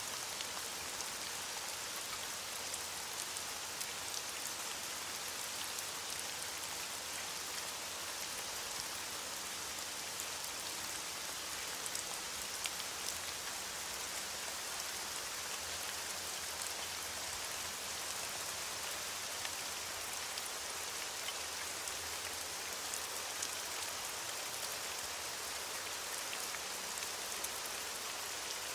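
Steady heavy rain falling, an even hiss with fine scattered drop ticks on a surface.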